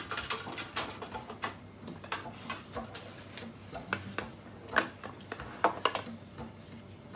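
Irregular clinks and clatter of dishes and utensils in a restaurant, a quick string of sharp knocks, the loudest a little under five seconds in and again near six seconds, over a faint steady hum.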